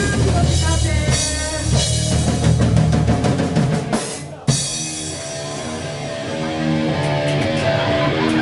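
Rock band playing loud, drum-heavy music. Just before the middle it fades out briefly, then comes back with a sharp hit, followed by repeated sustained guitar notes.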